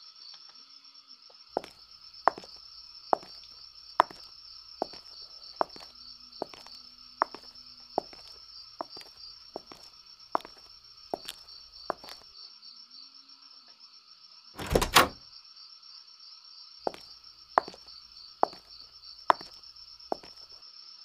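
Footsteps of one person walking at an even pace, a little more than one step a second, over a steady high-pitched chirring background. The steps stop for a couple of seconds, a single louder door thunk sounds about three-quarters of the way through, and then a few more steps follow.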